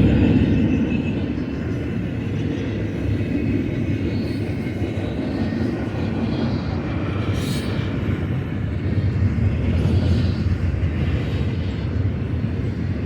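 Freight train rolling past with a steady low rumble of wheels on rail.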